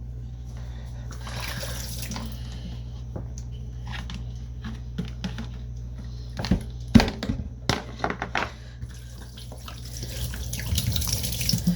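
Kitchen tap running into a sink in two short spells, with a few sharp knocks and clatters in between as the cat's food bowl is handled in the sink, over a steady low hum.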